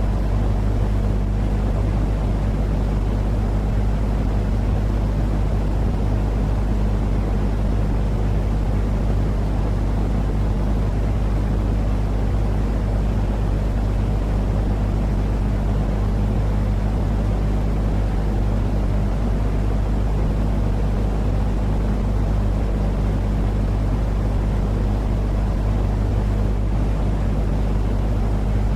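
Steady, unchanging noise that is heavy in the bass with a low hum under it: a deep white-noise-style soothing track for getting a baby to sleep, with no breaks or changes.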